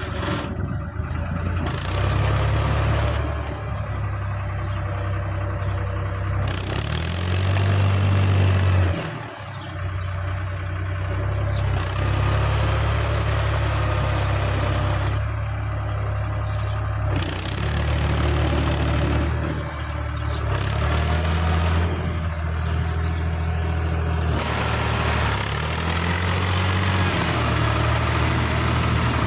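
Case JX55T tractor's diesel engine running under varying throttle, its pitch rising and falling several times, with a brief drop in level about nine seconds in.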